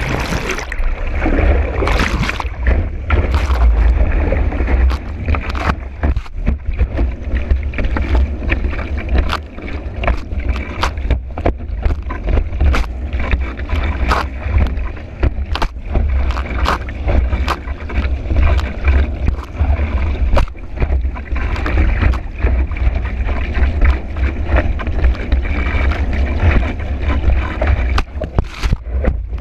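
Kiteboard planing fast across choppy water in strong wind, heard from a camera on the board: a heavy rumble of wind on the microphone and rushing water, broken by frequent sharp slaps as the board strikes the chop.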